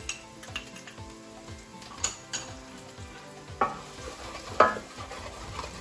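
Onions, garlic and freshly added ground spices sizzling in a hot pan while a spoon stirs them, with scattered scrapes and clinks of the spoon against the pan. Two louder short scrapes come about three and a half and four and a half seconds in.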